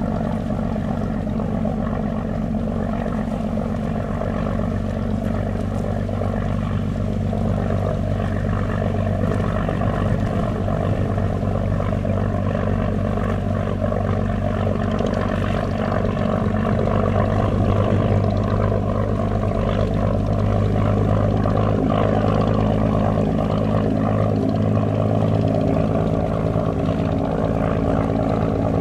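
A ship's engines running steadily: a deep, even engine hum with a few steady low tones, getting a little louder from about halfway through.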